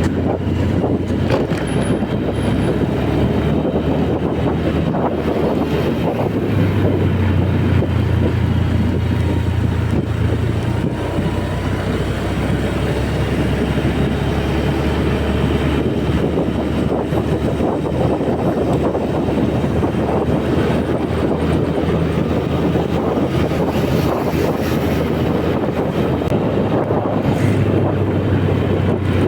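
Honda Beat scooter's small single-cylinder engine running steadily while riding, with wind and road noise. The engine note swells a little for a few seconds about a third of the way in and again near the end.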